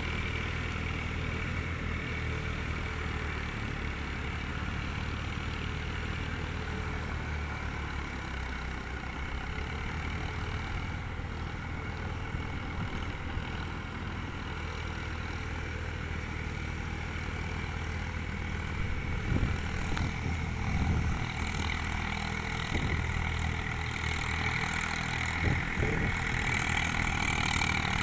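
Eicher 380 tractor's diesel engine running steadily, getting louder in the last third with a few knocks, as if working harder.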